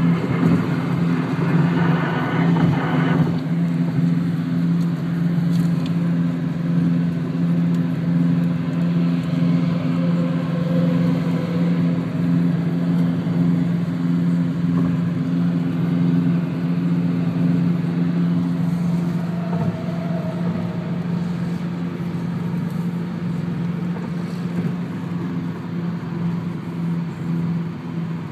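Car driving at highway speed: a steady low engine drone with tyre and road noise, and a louder hiss in the first three seconds.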